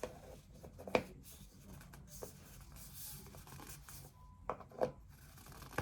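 Hands handling the plastic parts of a small humidifier, fitting its cover back on: soft rubbing with a few light clicks and knocks, two of them close together near the end.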